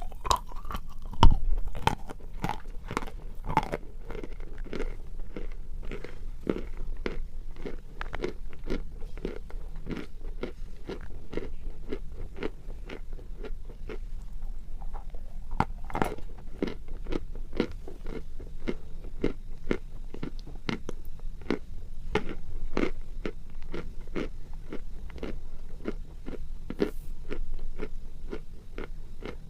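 Close-miked chewing of a hard lump of salt: a rapid, steady run of sharp crunches between the teeth, with one loud bite about a second in.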